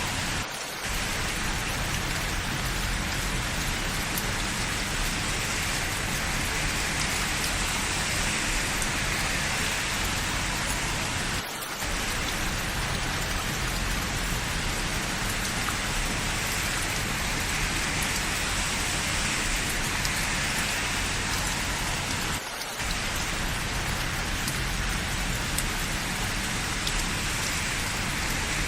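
Steady rain falling, an even dense hiss with no pauses in the downpour, dipping briefly in level three times about eleven seconds apart.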